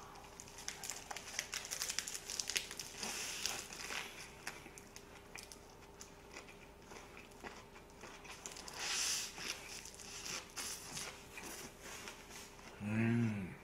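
Close-up chewing of a big pork-belly lettuce wrap: crisp crunching of leaves and wet mouth sounds with many small clicks. Near the end comes a short hummed "mm" that rises and falls in pitch.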